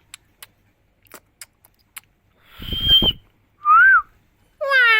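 Green parrot whistling. A few faint clicks are followed, about two and a half seconds in, by a breathy burst with a held high whistle. Just before four seconds comes a short whistle that rises and falls, and a longer call with several tones starts near the end.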